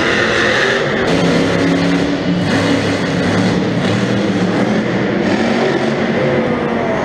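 Monster truck engines running loud and steady in an arena, with some rising and falling revs near the end.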